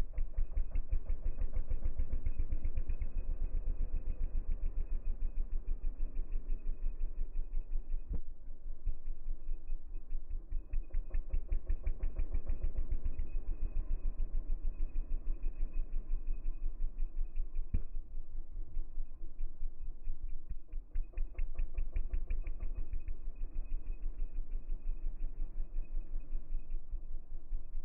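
Piaggio Zip 80cc four-stroke scooter engine running through an Akrapovic exhaust, a rapid even train of exhaust pulses that swells and dips in strength. Two sharp pops stand out, about eight seconds in and again near eighteen seconds: exhaust backfires.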